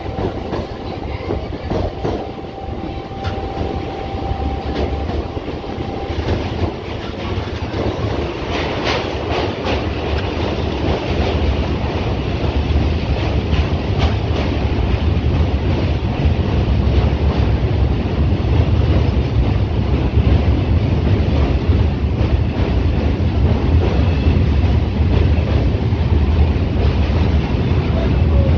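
Electric suburban local train running on the rails, heard from aboard: a steady rumble with wheel clatter. A thin steady whine stops about six seconds in, and a short patch of sharper clatter follows a couple of seconds later. The rumble then grows louder and heavier as the train rolls across a steel truss bridge.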